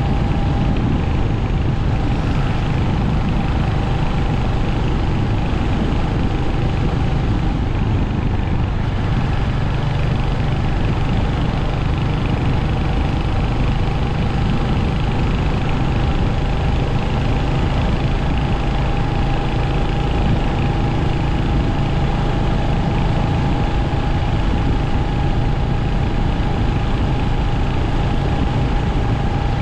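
Royal Enfield Hunter 350's single-cylinder engine and exhaust running at a steady, even note with no revving.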